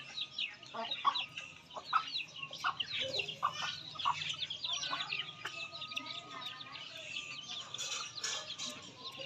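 A group of chicks peeping busily: many short, high chirps overlapping continuously, with a few lower calls among them.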